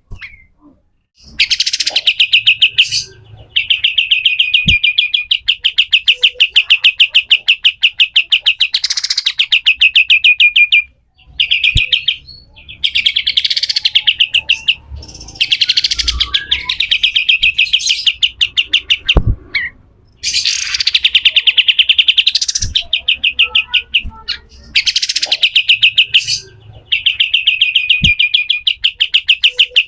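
Kapas tembak (white-shouldered triller) singing harsh, rapid rattling trills, the 'besetan kasar' song: long runs of fast repeated notes broken by short pauses.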